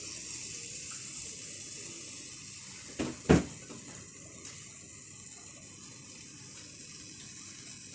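Steady hiss of cooking oil heating in a pan on the stove. Two sharp knocks come about three seconds in, the second louder.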